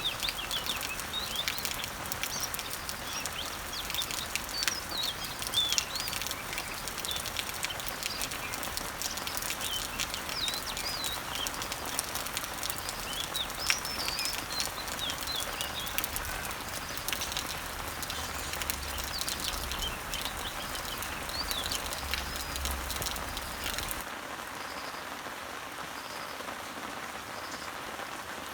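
Rain falling on leaves and trees, a steady hiss dotted with sharp drop hits, while birds chirp in short high calls. About four seconds before the end the sound changes abruptly to softer, more even rain, with a faint high note repeating about once a second.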